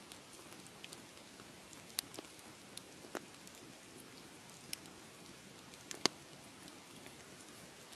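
Fireplace fire crackling: a steady soft hiss with scattered sharp pops, the loudest about six seconds in.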